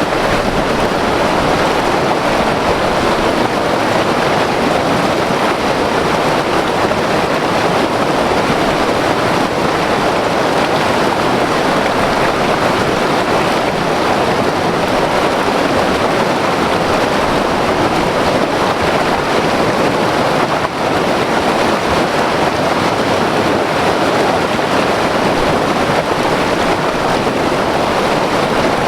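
White water river rushing over rocks, a loud, steady, unbroken roar of water.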